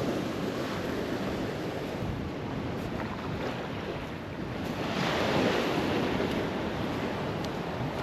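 Ocean waves breaking and washing up the beach, with a steady rush of surf and wind buffeting the microphone; a wave surges louder about five seconds in.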